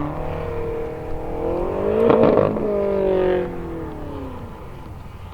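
A BMW performance car accelerating past at speed. Its engine note climbs to a loud peak about two seconds in, then drops in pitch and fades as the car moves away.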